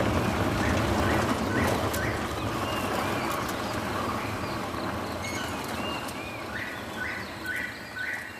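Forest ambience with birds calling, short arching calls repeated every second or so over a steady background rumble, with a quick run of short notes near the end.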